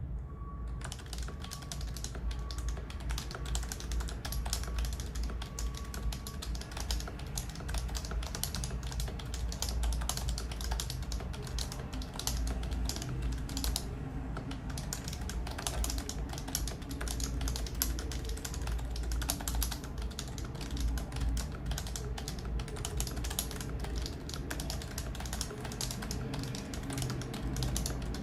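Continuous fast typing on an electro-capacitive (Topre-style) custom keyboard with a 3D-printed case, stainless steel plate, 65 g springs and Domikey EC keycaps: a dense run of keystroke clicks.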